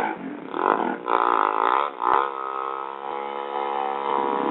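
Motorcycle engine revving up and down, then running at a steady pitch from about two seconds in.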